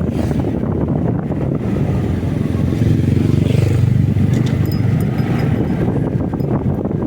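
Motorcycle riding at speed: the engine's low rumble under wind buffeting the microphone, growing a little louder about three seconds in.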